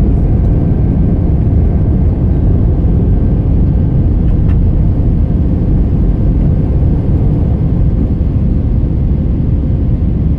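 Jet airliner cabin noise in the climb after takeoff: the steady, loud rumble of the engines and airflow, with a faint steady tone running through it.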